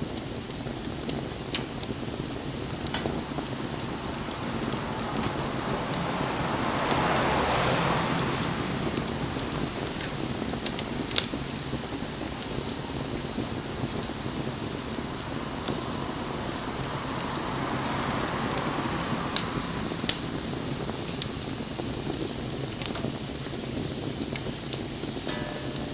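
Wood fire burning: a steady hiss with scattered sharp pops and crackles of burning wood, and two slow swells of louder rushing noise, one about seven seconds in and another near eighteen seconds.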